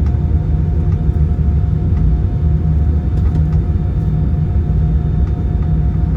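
Cabin noise inside an Airbus A320-214 taxiing after landing: a steady low rumble from the idling CFM56 engines and the rolling gear, with a thin steady whine above it.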